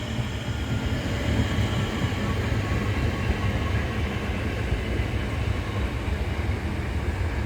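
Southeastern Class 465 Networker electric multiple unit running past at platform, a steady low rumble of wheels on rails with faint steady tones over it.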